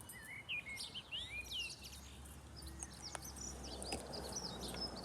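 Birds chirping and singing: short whistled notes that sweep up and down, thickest in the first couple of seconds, with scattered chirps after.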